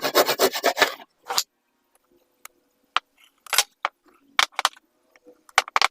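Sharp knocks and taps of woodworking on a board joint: a quick run of about eight taps in the first second, then single or paired knocks spaced about a second apart.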